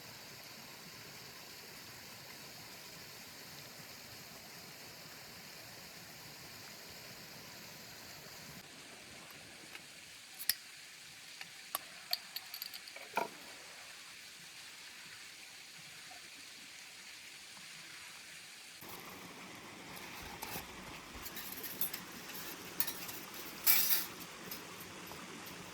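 Steady hiss of outdoor ambience, like a stream, that breaks off about a third of the way in. It is followed by scattered light clicks, clinks and taps of camp cookware and utensils being handled, growing busier near the end.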